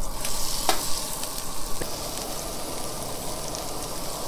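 Fish fillets sizzling in hot butter in a skillet: a steady frying hiss that starts suddenly as the fillets go into the pan, with a sharp metal clink less than a second in.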